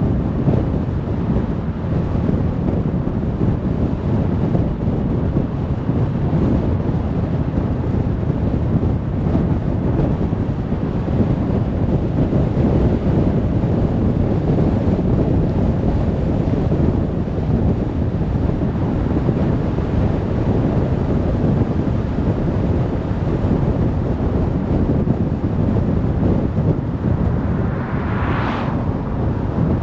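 Steady low road noise from a car driving: tyre and wind rumble. Near the end a brief brighter hiss swells and fades.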